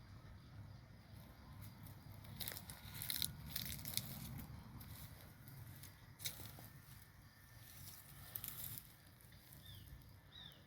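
Outdoor ambience: a low steady rumble with scattered crackling and crunching, heaviest a few seconds in, and a bird's short falling chirps repeated three or four times near the end.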